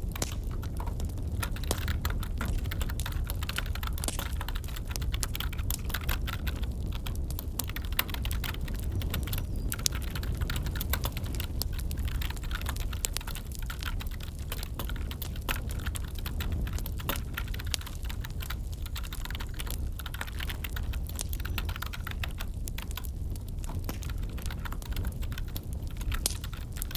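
Fast, steady typing on a computer keyboard, dense irregular key clicks, over a wood fire crackling and hissing softly underneath.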